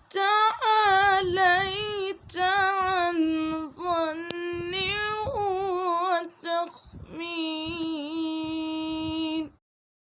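A solo high voice singing a wordless, drawn-out Arabic devotional chant in wavering phrases. It ends on a long held note that stops abruptly about nine and a half seconds in.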